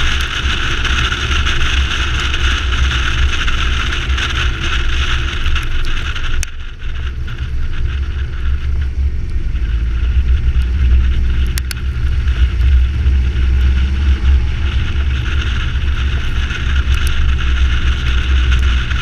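Car running under way with a steady low engine rumble and road and wind noise. The higher noise drops off suddenly about six seconds in and builds back over the following seconds.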